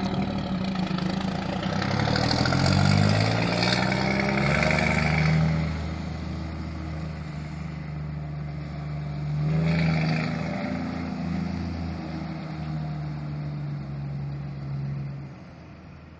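Scania R420 truck's six-cylinder diesel engine pulling away under load, its note climbing in steps as it shifts up through the gears, then easing and fading out near the end.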